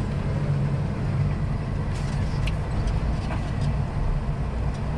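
Semi-truck diesel engine heard from inside the cab, a steady low drone while the truck slows on its engine brake (Jake brake).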